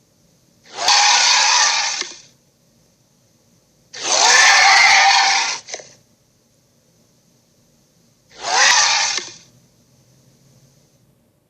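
Three recorded dragon roars from a dragon Funko Pop sound toy, one after another, each lasting one to two seconds; the middle one is the longest.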